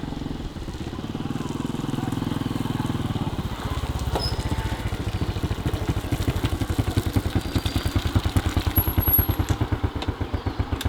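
A small engine running. From about three and a half seconds in, it settles into a pulsing, chugging beat of several beats a second that grows louder, then fades near the end.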